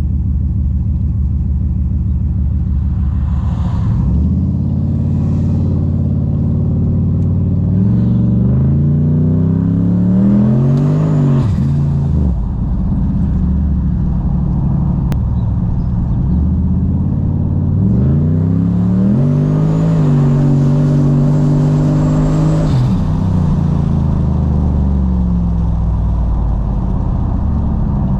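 Turbocharged V8 engine idling, then revved up hard twice. Each time the pitch climbs for three to four seconds before dropping quickly back to idle.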